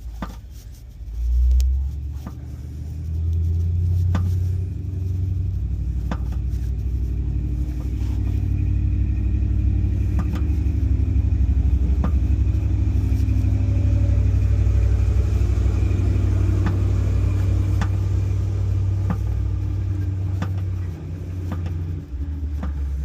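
1961 Chevrolet Impala running at low speed as it is moved, a steady low rumble that swells sharply about a second and a half in.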